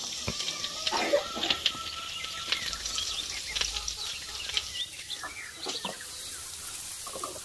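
Glass pot lids and a metal spoon clinking and knocking against steel and enamel cooking pots as the lids are lifted off and set back on, in a string of short scattered clicks.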